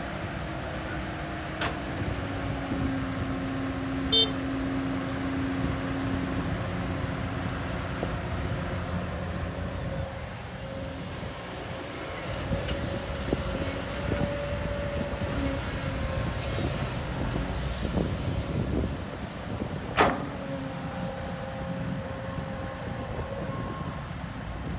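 Diesel engines of heavy earthmoving machinery running steadily, with a few sharp metallic knocks; the loudest knock comes about twenty seconds in.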